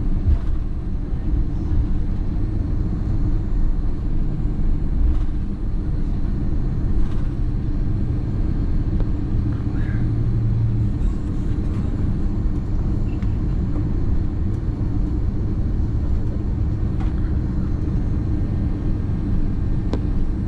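Inside the cabin of an Airbus A330-200 taxiing after landing: a steady low rumble of the engines at low power and of the wheels rolling, with a few faint clicks.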